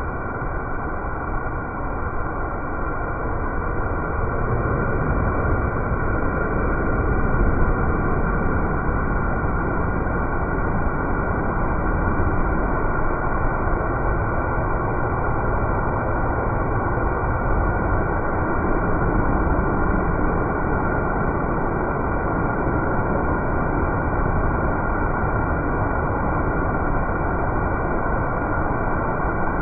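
Steady noise of a car driving along at constant speed: road and wind noise with no revving.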